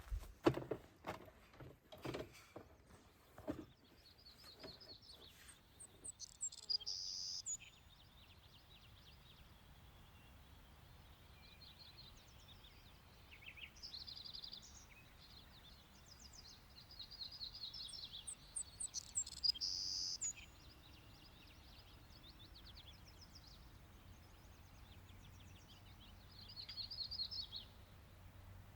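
Songbirds singing short, high, trilled phrases every few seconds over a faint steady background hiss. The first few seconds hold a run of sharp clicks and knocks.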